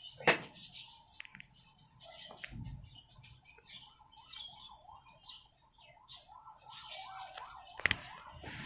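Small aviary birds chirping and twittering, with a warbling call running through the middle. A few sharp knocks or clicks come through, the loudest one near the end.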